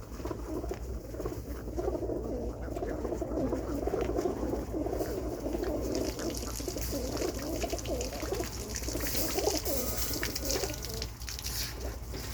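A group of pigeons in kit boxes cooing, many overlapping voices at once; a steady hiss joins about six seconds in.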